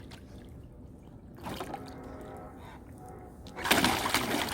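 Water sloshing and trickling as a golden retriever plays in a tub of water, with a louder burst near the end.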